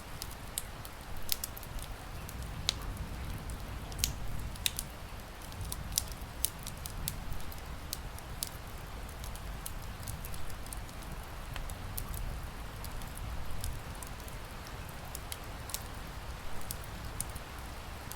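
Wood fire crackling and popping in a fireplace, with sharp irregular snaps over a steady hiss of rain.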